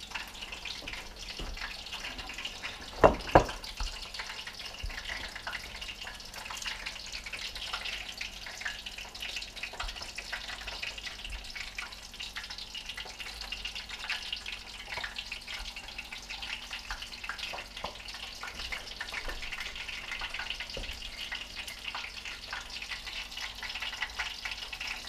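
Brook trout frying in hot oil: a steady crackling sizzle. Two sharp knocks come about three seconds in.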